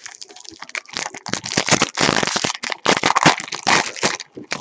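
Foil wrapper of a trading-card pack crinkling and crackling as it is torn open and handled, in dense clusters for about three and a half seconds.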